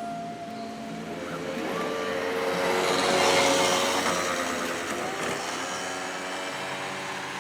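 A vehicle passing by: its noise swells to a peak about three seconds in and then fades away, over background guitar music.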